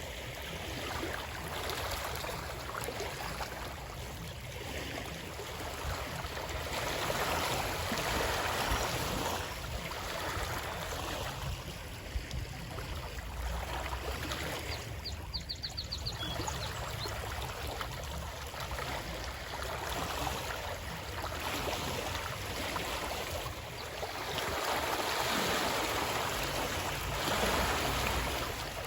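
Running water, a steady rush that swells and eases every few seconds. About halfway through comes a brief, rapid run of high ticks.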